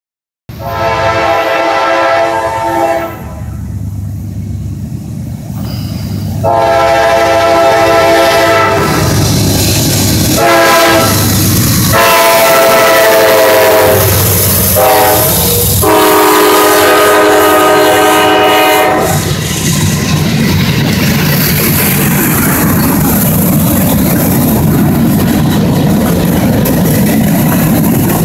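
Norfolk Southern freight locomotives pass close by, sounding their multi-note air horn in a series of long and short blasts. About nineteen seconds in the horn stops, leaving the steady rumble and clatter of covered hopper cars rolling by on the rails.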